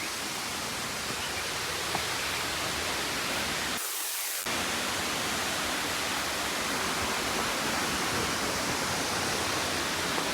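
Steady rush of a waterfall, the falls running low, with a short break in the low rumble about four seconds in.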